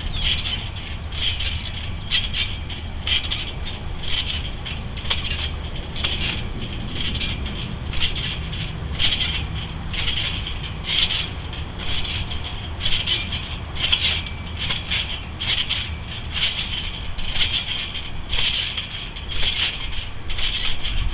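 Trampoline springs and mat creaking and scraping with each bounce, about once a second, over a steady low rumble.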